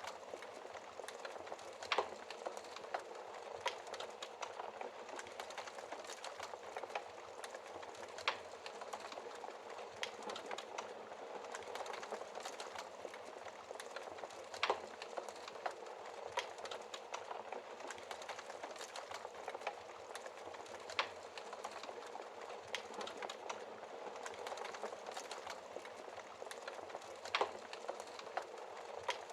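Wood logs burning in a fireplace, crackling steadily with a constant hiss of small snaps and a louder sharp pop every six seconds or so.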